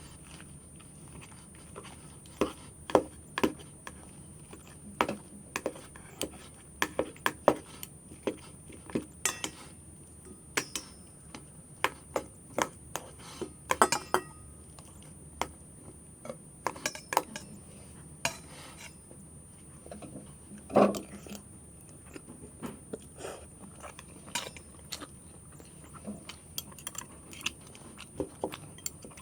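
Eating sounds from a meal of Korean spicy noodles: irregular sharp clicks and clinks of utensils against a bowl, with chewing between them and one heavier knock about two-thirds of the way through.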